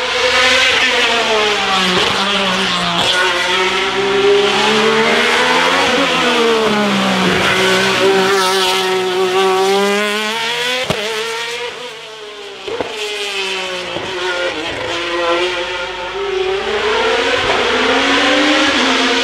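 Hillclimb racing car engine at full throttle. Its pitch repeatedly climbs and drops as it accelerates, shifts gear and brakes for bends, with sharp cracks at several of the shifts and a short easing-off about twelve seconds in.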